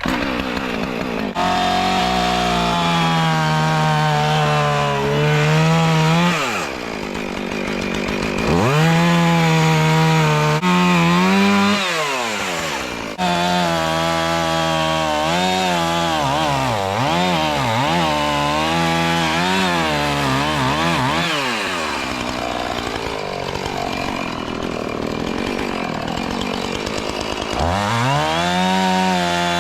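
Two-stroke chainsaw cutting the top cut of an open-face felling notch. It runs at high revs, drops to idle about three times and revs back up, and its pitch wavers up and down in the middle as the chain loads into the wood.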